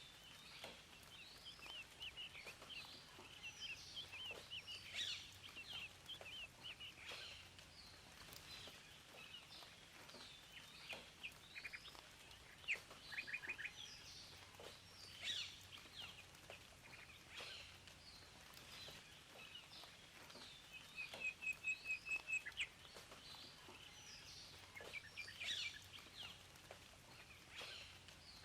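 Several birds chirping and singing in a continuous chorus of short calls and trills, including a quick run of repeated notes near the end, over a faint steady background hiss.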